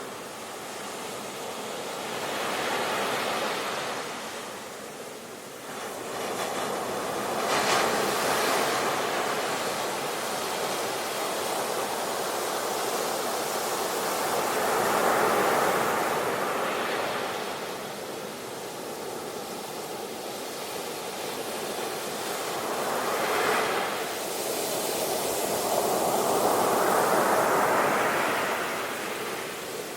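Sea waves washing in as steady surf noise that swells and fades, with a louder surge every five to eight seconds.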